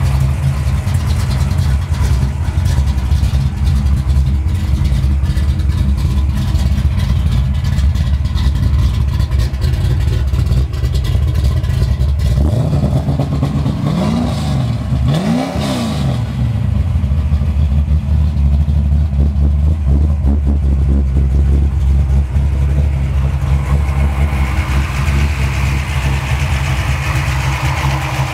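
The V8 of a 1995 Ford Mustang SVT Cobra R race car idling steadily. The throttle is blipped twice about halfway through, and the revs rise and fall back to idle each time.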